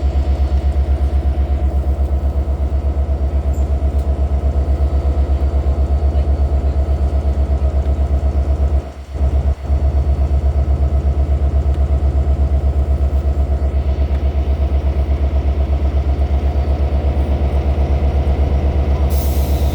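Engine idling with a steady, low, pulsing hum, dipping out briefly about nine seconds in.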